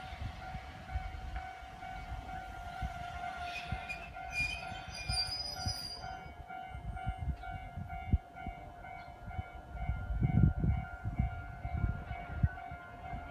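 Nagano Electric Railway electric train rumbling through the station, loudest about ten seconds in, with a brief high squeal about four seconds in. A railway crossing warning bell rings steadily throughout.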